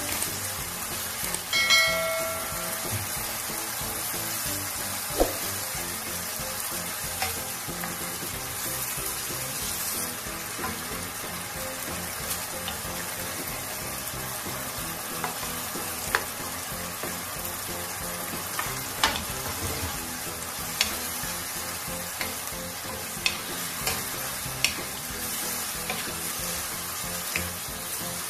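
Chicken pieces sizzling in sauce in a nonstick wok, with a wooden spatula stirring them and knocking against the pan now and then. A short chime about two seconds in.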